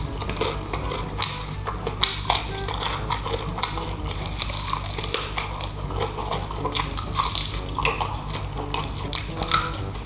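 Close-up chewing of fried chicken: a quick, irregular run of short mouth clicks and smacks.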